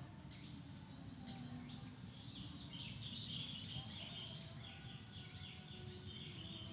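Small birds chirping: dense, high-pitched, rapid chirps overlapping throughout, over a steady low background noise.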